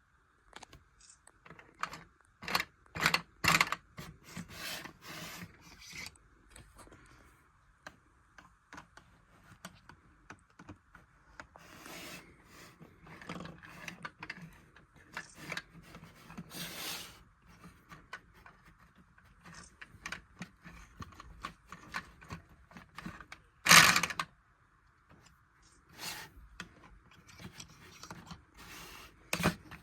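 Lego butterfly vacuum engine running: plastic parts clicking and rattling irregularly over a faint steady whine, with one loud clatter about three-quarters of the way through.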